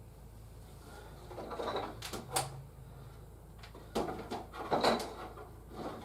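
Clicks and clatter of plastic toy parts being handled, in two short bursts: one a second and a half in, another about four seconds in.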